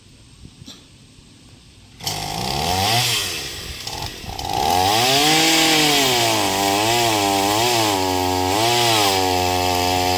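Chainsaw starting suddenly about two seconds in and revving up and down, then running at high speed with its pitch dipping and wavering as it cuts into a tree limb.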